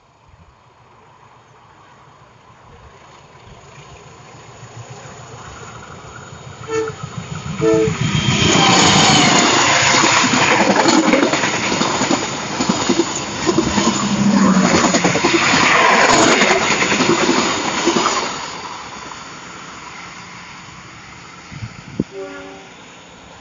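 A diesel-hauled passenger train approaches over a steel truss railway bridge and passes close by. A rumble builds, two short horn toots sound about seven seconds in, then comes about ten seconds of loud, rhythmic clattering of wheels over the rail joints. The sound then fades as the train moves away.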